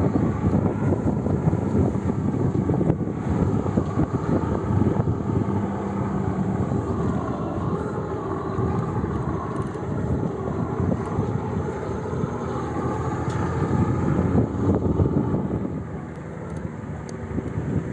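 A vehicle running while driving over a rough dirt track, a steady rumble with wind on the microphone.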